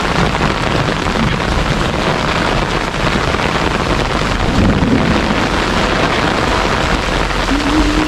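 Heavy rain falling steadily, hissing on the yard and on the umbrella overhead, with a constant low rumble underneath.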